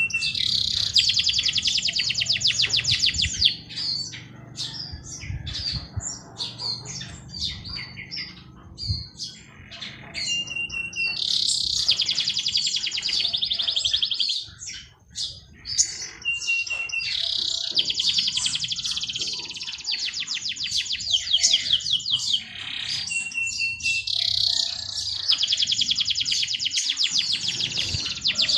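Songbird singing the same song over and over, about every six seconds: a short steady high note, then a long, very fast trill. Other birds chirp briefly in between.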